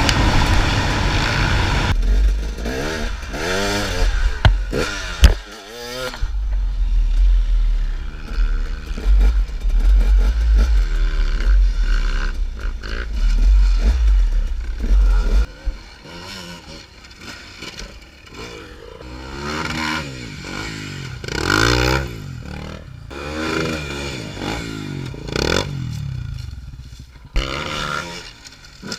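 Dirt bike engines revving up and down over and over, with a heavy low rumble during the first half and quieter revving after that.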